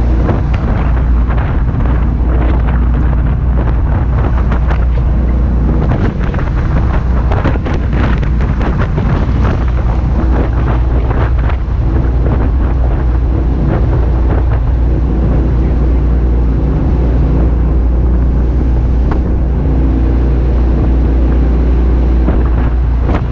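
Jet boat engine running steadily under way, with wind buffeting the microphone in irregular gusts.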